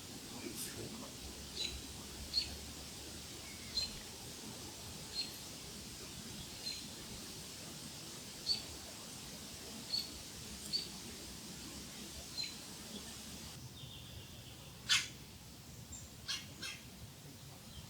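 A bird chirping with short, high single notes about every second or so. Near the end a louder, sharp note comes, then two more in quick succession.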